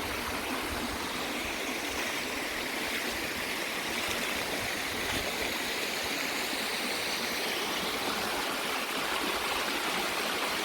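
Waterfall and creek water rushing and splashing steadily, a constant, even rush.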